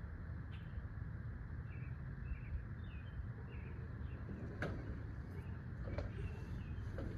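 Small birds chirping faintly over a steady low rumble of outdoor background noise, with a few sharp clicks in the second half.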